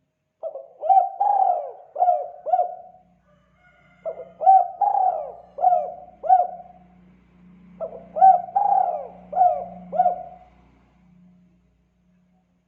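Spotted dove (tekukur) cooing, its 'kuk 2' call. It gives three phrases of about five coos each, with a short pause between phrases.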